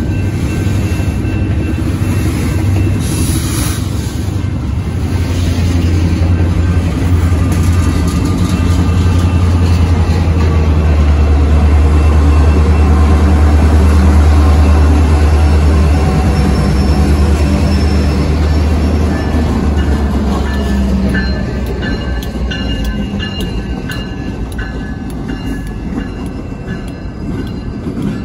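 Freight train passing close, its wheels rolling and clacking over the rails as the freight cars go by. Then Canadian Pacific diesel locomotives pass, and their engines' deep drone is loudest about halfway through before fading as they move away. A level-crossing bell rings, clearest near the end.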